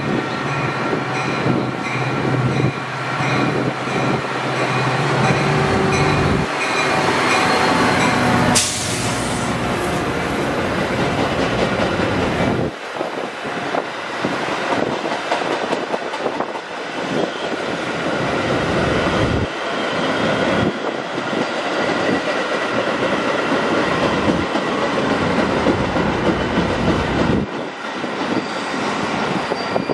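Metra diesel commuter train passing: the locomotive's engine hums steadily as it approaches, then the bilevel passenger cars roll close by with wheel and rail clatter and a steady high whine.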